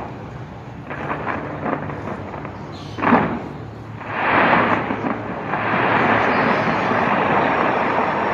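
Aerial fireworks going off: scattered crackling pops, one sharp bang about three seconds in, then a continuous dense wash of crackling and booming from many shells at once.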